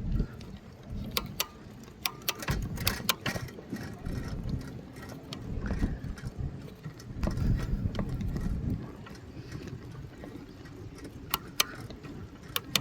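Riding a bicycle: uneven low rumble of wind on the microphone, with scattered sharp clicks and rattles from the bike.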